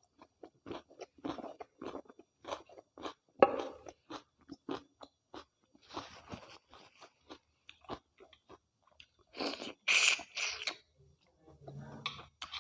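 Close-miked chewing of mutton and rice, wet and crunchy, with the small bones in the meat crunching between the teeth. Irregular short crackles throughout, with louder, sharper stretches about three and a half and ten seconds in.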